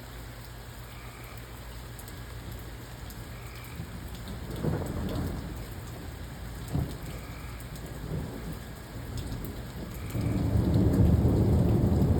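Steady rain falling through a thunderstorm, with thunder rumbling: a low swell about a third of the way in, a short sharp crack past the middle, and a loud rolling rumble building near the end.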